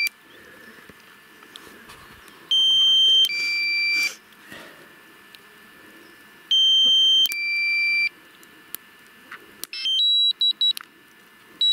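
Quadcopter controller's low-battery alarm: a repeating two-tone beep, a higher tone then a lower one, sounding twice about four seconds apart, followed near the end by a quick string of short beeps. It signals the drone's battery is running low.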